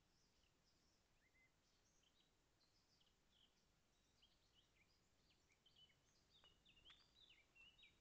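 Faint songbird calls: many short chirps and whistled notes, growing busier and louder in the last few seconds.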